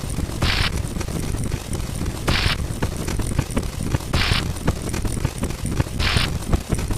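Battle-type sound effect: a dense run of rapid gunfire-like cracks over a low rumble of booms, with a short hiss burst about every two seconds.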